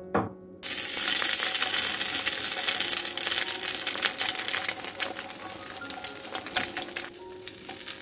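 Grated potato and egg batter hitting hot oil in a frying pan, sizzling loudly from a sudden start about half a second in. After about four seconds the sizzle eases to a lighter frying crackle, with a sharp tap of the metal spoon on the pan later on.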